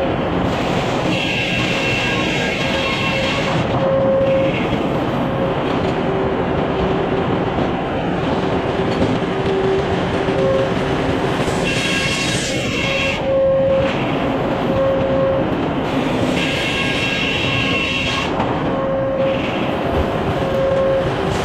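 Sawmill machinery running with a steady, loud mechanical noise, and a high whine that cuts in and out every few seconds.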